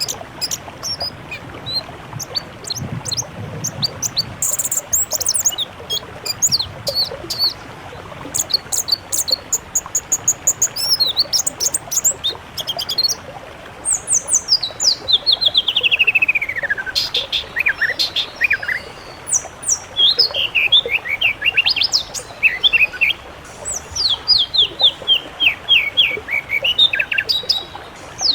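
Mixed songbird song: rapid high chirps and trills over a steady hiss, with a falling run of notes about halfway through and repeated sweeping phrases toward the end.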